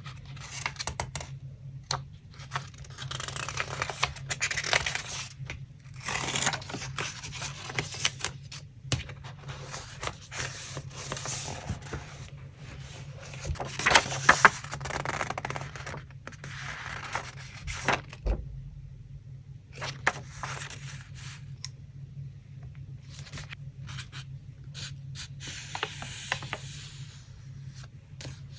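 Paper being handled for a collage: repeated bursts of rustling and scraping with small clicks and taps, the loudest about halfway through, over a low steady hum.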